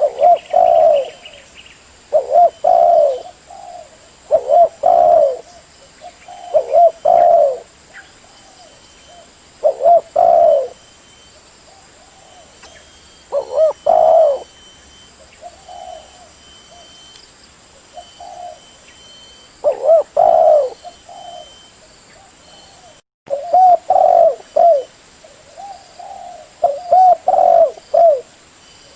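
Spotted dove cooing: phrases of a few coos repeated every two to three seconds, with a pause of several seconds about midway.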